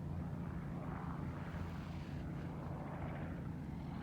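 Steady low drone of a distant engine, with no clear change in pitch or level.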